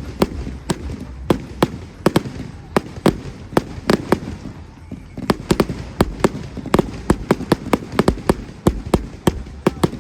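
Fireworks display: an irregular, rapid string of sharp bangs and cracks, several a second, from exploding aerial fireworks.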